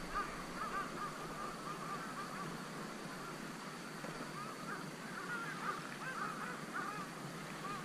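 Birds calling in the distance: many short, arched calls, irregular, over a steady hiss.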